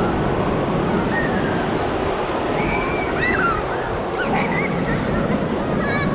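Ocean surf washing onto the beach in a steady rush. Faint calls from distant voices rise and fall above it.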